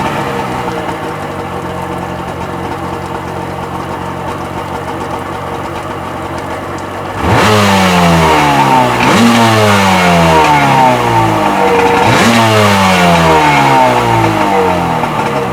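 Rebuilt Sea-Doo XP 720 two-stroke engine running unloaded, with the jet pump disconnected, on its first break-in run. It runs steadily for about seven seconds, then is revved sharply three times, each rev rising quickly and dropping back slowly.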